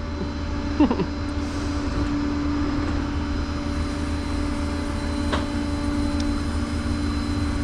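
Truck engine idling steadily: a low, even drone with a steady hum above it.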